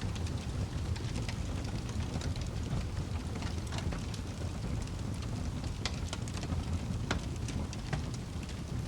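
Fire in a fireplace crackling: irregular sharp pops and snaps over a steady low rumble of the burning fire.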